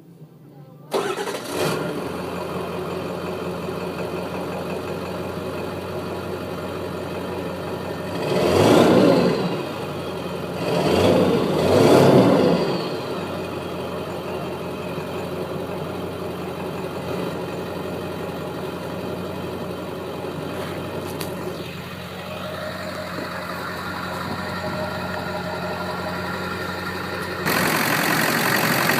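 Ford 7.3 Powerstroke turbodiesel V8 starting about a second in and settling into a steady idle, heard through its exhaust. It is revved twice, rising and falling, about nine and twelve seconds in, then idles again, louder near the end.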